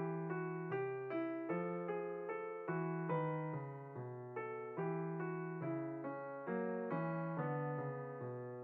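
Background piano music: a calm, even run of single struck notes, about two a second, each fading before the next.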